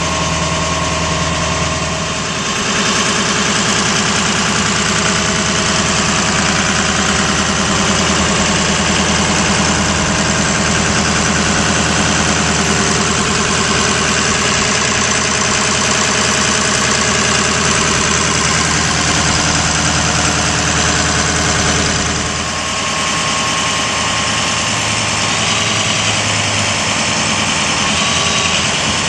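A Ford F550's 6.0L Powerstroke V8 diesel running steadily at idle. Its tone shifts about two seconds in and again about 22 seconds in.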